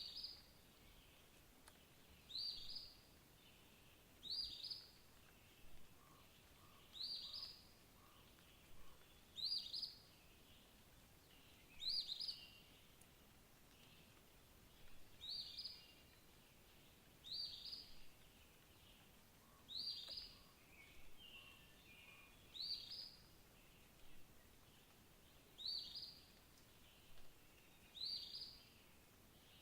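A songbird repeating one short, high call about every two to three seconds, with fainter calls from other birds now and then over a quiet background.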